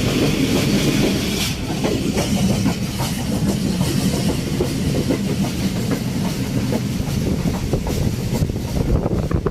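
Karakoram Express passenger train running along the track, heard from inside the carriage: a steady low rumble with the repeated clack of wheels over the rails.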